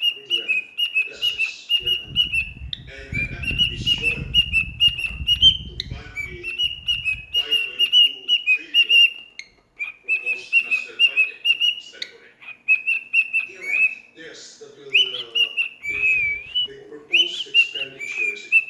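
Young cockatiel chirping in a long run of short, quickly repeated high calls. A low rustling noise runs under it for a few seconds near the start, and near the end come a few whistled notes that bend up and down.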